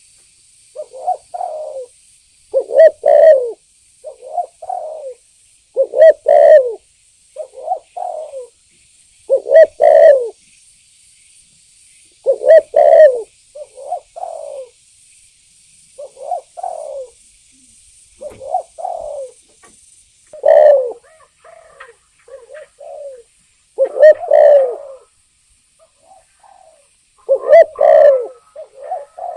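Spotted dove cooing over and over: loud phrases of low coos every three to four seconds, with softer coos in between.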